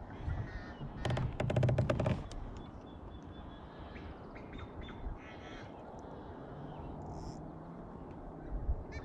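Birds calling, with a loud run of harsh calls about a second in and scattered calls later, over a faint low engine hum near the end.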